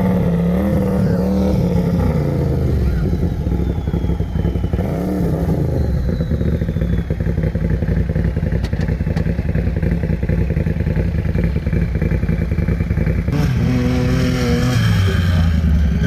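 Engines of a supercharged Can-Am Outlander ATV and a turbocharged Can-Am Maverick side-by-side running hard in a race, their pitch rising and falling with the revs. Near the end the revs drop away.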